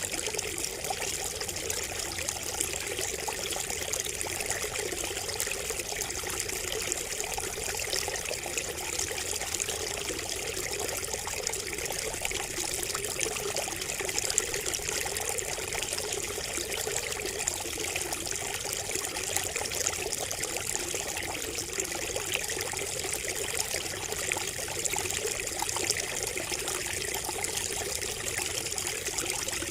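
Water trickling and splashing steadily from a bamboo spout, an even, unbroken pour with small splashes throughout.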